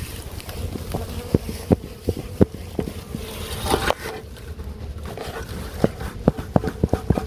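Honeybees from an opened nest buzzing in a steady hum, with many short sharp clicks and taps scattered through it.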